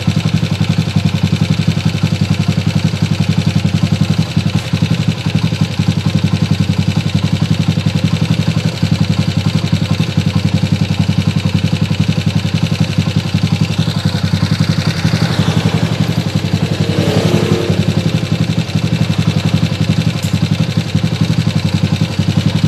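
Honda TMX 155's single-cylinder four-stroke engine running steadily with a fast, even ticking. This is valve-train clatter that the mechanic traces to the rocker arm.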